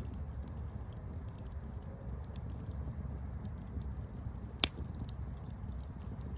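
Campfire burning with a steady low rumble and scattered small crackles. One loud sharp pop comes a little over halfway through.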